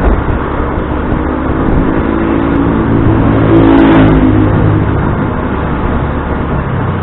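Motor scooter ride: wind rumbling over the microphone and engine noise, with a vehicle engine growing to its loudest about four seconds in and then easing off.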